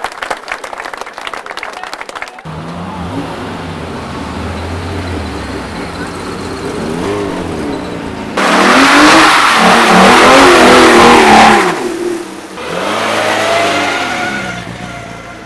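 Classic rally car engines blipped and revved repeatedly as the cars pull away, the pitch swinging up and down with each rev. One car passes close and loud from about eight to twelve seconds in, followed by another rising rev. The first couple of seconds hold a dense clatter like hand-clapping.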